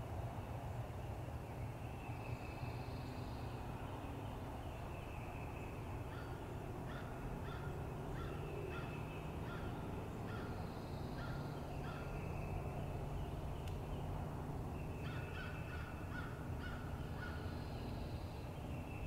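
Wild birds calling in the woods: two runs of short, evenly spaced harsh calls, about two a second, with shorter repeated high-pitched song phrases between them.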